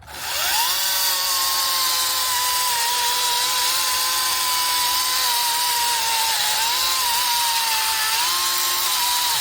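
Small household electric saw motor spinning up with a rising whine, then running steadily with slight dips in pitch as it works on firewood. The owners judge it too weak for cutting firewood.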